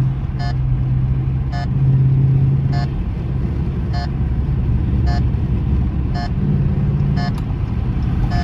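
2020 Dodge Charger R/T's 5.7-litre Hemi V8 exhaust droning from inside the cabin while driving, made louder by a mid-muffler delete; the note eases off about three seconds in and picks up again near the end. A sharp tick repeats about once a second over it.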